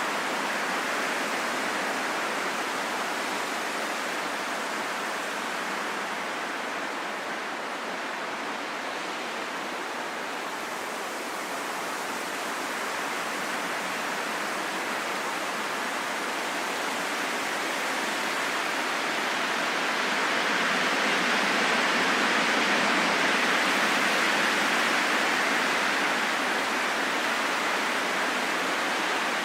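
Steady rain falling in a forest, a dense even hiss that swells a little about two-thirds of the way through.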